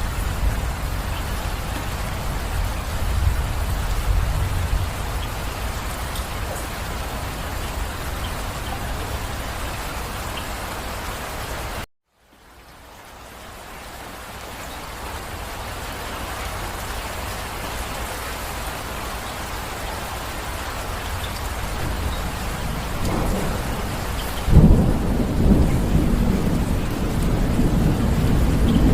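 Steady rain with low rolling thunder. The sound cuts out for a moment about twelve seconds in and fades back up, and near the end a loud rumble of thunder breaks in suddenly.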